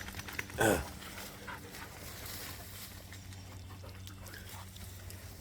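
A dog makes one short vocal sound about half a second in; the rest is faint, steady background noise.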